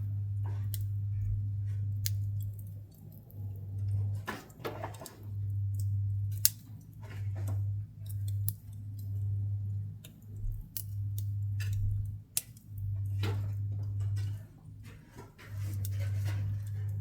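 Pine offcuts burning in a wood stove: scattered sharp pops and snaps of the fire, the loudest about six seconds in. Under them a low hum starts and stops every second or so.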